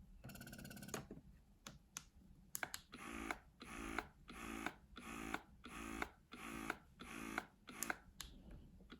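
Electric breast pump motors cycling suction. The Spectra pump's slower stroke ends about a second in, and after a few handling clicks the BellaBaby wearable pump runs a faster, even rhythm of about two buzzy strokes a second, a little noisier than the Spectra.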